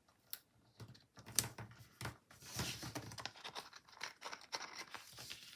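Paper planner stickers being peeled and pressed onto the page: quiet rustling and peeling of paper with a few light taps.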